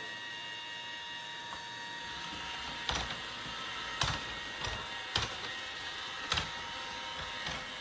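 Robot vacuum running with a steady motor whine, broken by about half a dozen sharp knocks in the second half.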